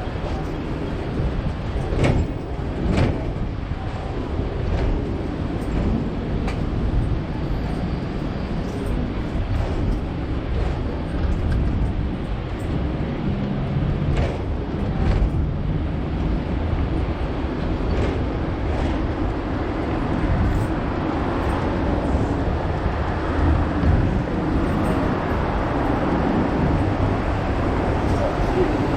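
Hong Kong double-decker tram running along its street tracks, heard from on board: a steady low rumble with occasional sharp clacks and knocks.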